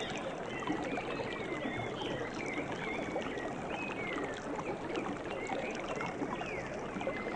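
Running water, such as a stream, with many short, high chirping calls from wildlife repeating over it.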